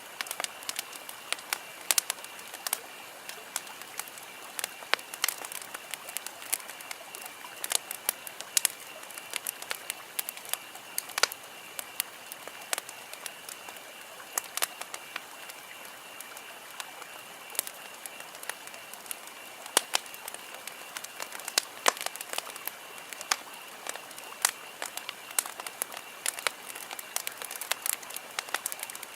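Wood campfire crackling: irregular sharp pops and snaps, several a second, over a steady hiss, with a faint steady high-pitched drone underneath.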